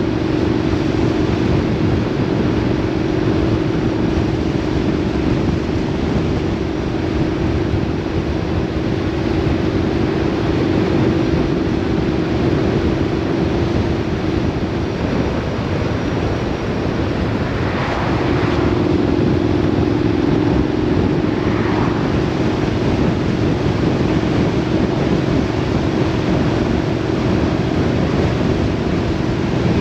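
A vehicle on the move: a steady engine drone over heavy wind and road noise. About halfway through the engine note fades out, then comes back a few seconds later at a slightly different pitch.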